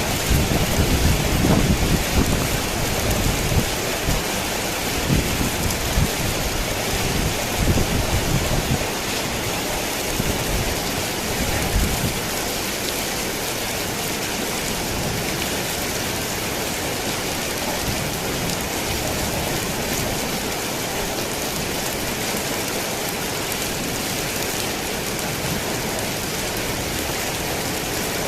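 Steady rain pattering on a tin roof, with thunder rumbling through the first twelve seconds or so before dying away, leaving only the rain.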